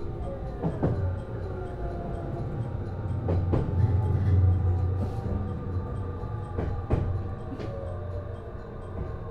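Interior running sound of a JR East HB-E210 hybrid railcar at low speed: a steady low hum with faint gliding inverter and motor tones. Occasional sharp clicks come from the wheels over rail joints, about a second in, near the middle and again near the end.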